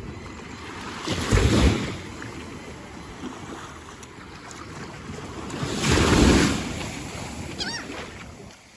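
Sea surf washing in the shallows, with wind on the microphone; the noise swells loudly twice, about a second in and again about five seconds later.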